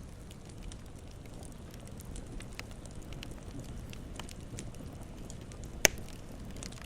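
Campfire burning with scattered small crackles over a low steady rumble, and one loud sharp pop near the end.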